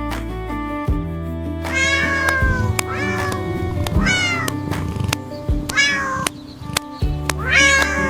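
A cat meowing four times, each meow a drawn-out cry falling in pitch, over background music.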